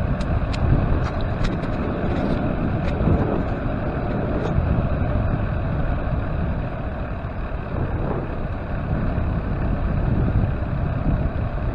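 Steady rumble of a bicycle ride picked up by a bike-mounted camera: wind on the microphone and tyre and frame noise, with a few sharp clicks or ticks in the first three seconds.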